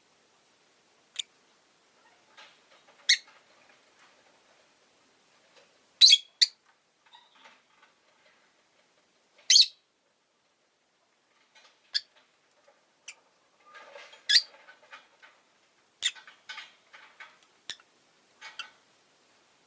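Rosy-faced lovebird giving short, sharp, high-pitched chirps every second or two, with soft chattering in between.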